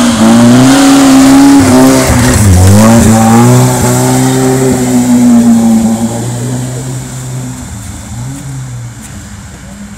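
Lada Zhiguli race car's four-cylinder engine revving hard as it pulls away through slush. The pitch dips about two and a half seconds in as it shifts gear, then climbs again. The sound fades over the last few seconds as the car drives off.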